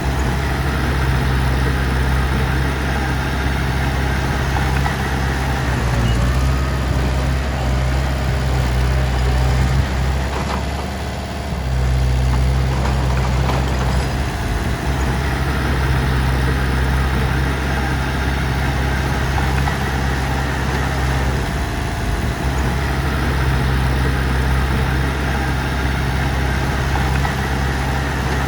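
Heavy diesel engine running steadily at an even pitch, with a brief drop in level about eleven seconds in.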